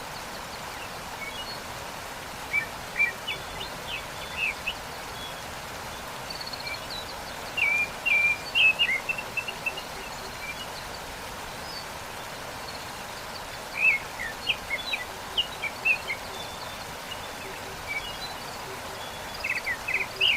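Steady rush of a waterfall, with small birds chirping in quick clusters of short notes every few seconds, the loudest around eight seconds in and about fourteen seconds in.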